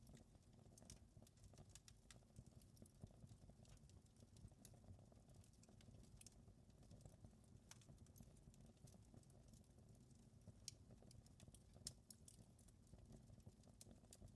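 Wood fire crackling faintly in a fireplace: scattered sharp pops and ticks at irregular intervals over a steady low rumble.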